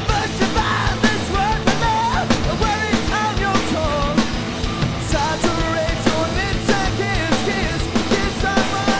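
Rock band playing a song: a singer over drum kit and guitars, with a steady driving beat.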